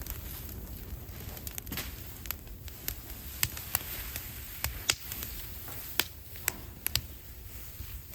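Burning scrap wood crackling, with sharp irregular pops and snaps over a low rumble of the fire.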